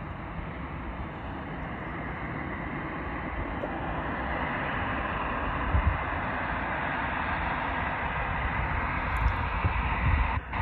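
Jet airliner engines: a steady rushing roar that grows gradually louder, with low buffeting thumps from wind on the microphone.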